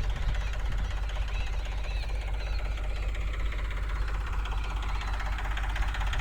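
Sonalika tractor's diesel engine running steadily with an even, rapid beat.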